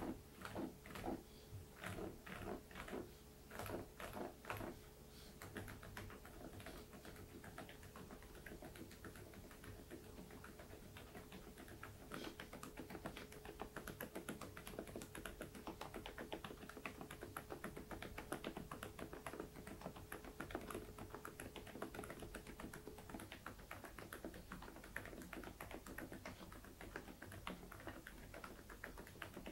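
Typing on an InterPixel IPK104 PRO full-size keyboard with Outemu Peach V3 silent linear switches, its keystrokes quiet and muted. A few separate keystrokes come first, then steady fast typing from about five seconds in.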